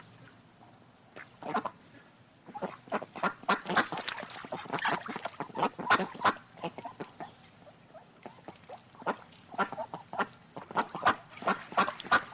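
Farm waterfowl calling: many short, rapid calls in clusters, densest in the middle, with brief lulls about 2 and 8 seconds in.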